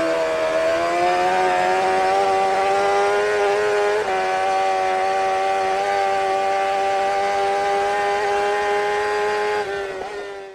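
An engine running at steady high revs, its pitch rising slightly at the start and holding, then fading out and cutting off at the end.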